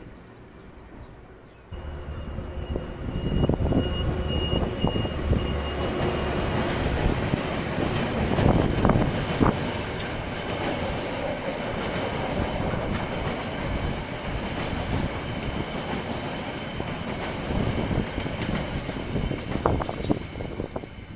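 KiwiRail train passing at close range: it comes in abruptly about two seconds in with a steady low engine hum and a thin high whine, then the cars roll by with a continuous rumble and repeated clicks of wheels over rail joints, fading out near the end.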